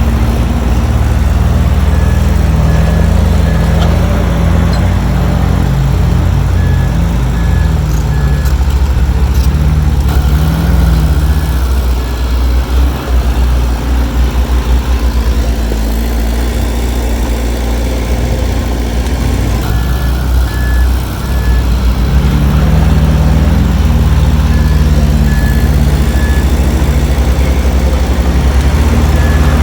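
Heavy diesel engine of earthmoving machinery running under load, its level dipping and becoming uneven in the middle. A reversing alarm sounds over it in short runs of about three beeps, several times.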